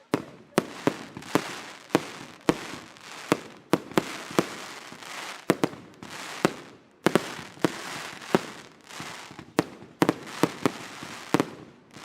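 Daytime fireworks: a rapid, irregular barrage of sharp bangs, one to three a second, with a rushing noise between them that swells and fades.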